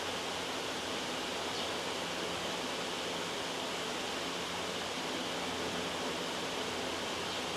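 Loud, steady white-noise hiss spread evenly across high and low pitches, with a couple of faint short scratches of writing on paper, about one and a half seconds in and near the end.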